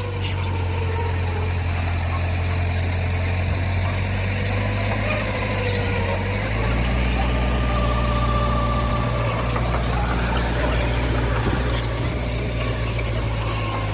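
Heavy diesel earthmoving machinery running steadily, with a low engine drone that shifts in pitch and load about six and a half seconds in.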